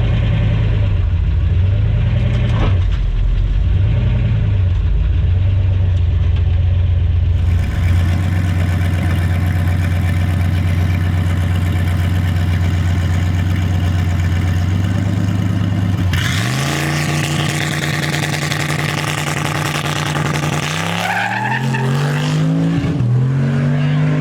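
Turbocharged LS V8 idling with a few small throttle blips. Its note changes about sixteen seconds in, and near the end it is revved up and down several times.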